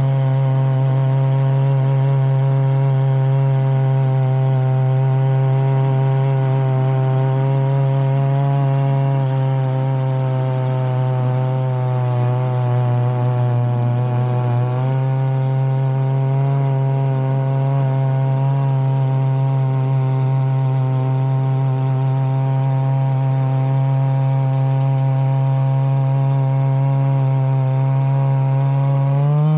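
Chainsaw running at high revs under load, cutting lengthwise through a log as it mills boards. The engine note sags slightly as the cut bogs it, picks back up about halfway through, and climbs again right at the end.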